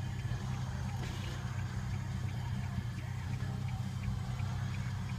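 Steady engine and road noise inside a moving car, a low, even hum.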